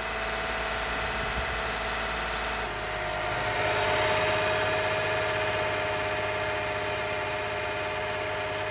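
2015 Toyota Sienna's 2GR-FE 3.5 L V6 running steadily with the hood open, a little louder from about three seconds in. It is being run to bleed trapped air out of the cooling system after a coolant drain and fill.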